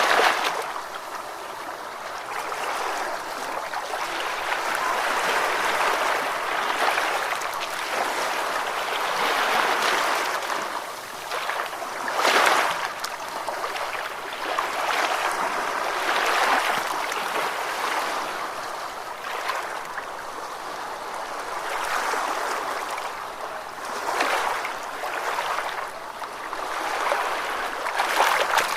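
Ocean waves washing in: a steady rush of surf that swells and eases every few seconds, with sharper surges at about 12 and 24 seconds in.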